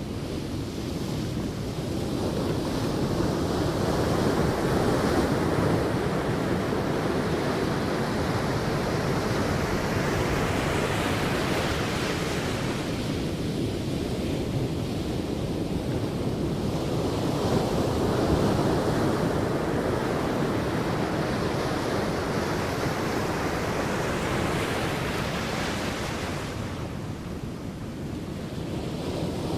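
Sea waves breaking and washing up a beach, a steady rush of surf that swells and eases in two slow surges.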